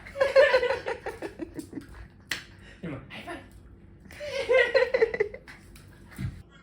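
A person laughing in two bursts a few seconds apart, with a single sharp click between them.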